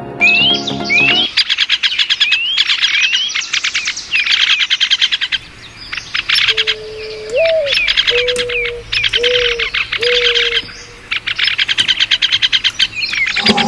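Birdsong: rapid chirping trills and short rising whistled calls repeating throughout, with a few lower whistled notes about halfway through. Background music cuts off about a second in and comes back just at the end.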